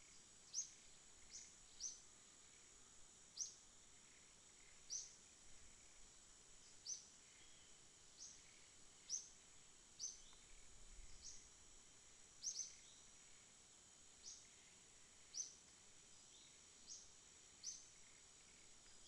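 Faint night ambience: a steady, high-pitched insect chorus, with short high chirps repeating roughly once a second.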